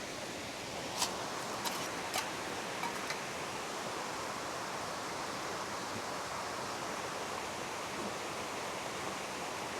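Steady rushing of a flowing river, with a few sharp knocks in the first three seconds.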